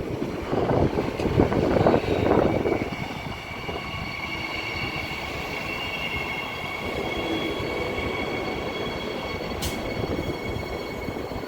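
Transperth electric multiple-unit train pulling into a platform. The loud rumble of the cars running past fades after about three seconds into a steady high-pitched squeal as the train slows to a stop, with one sharp click near the end.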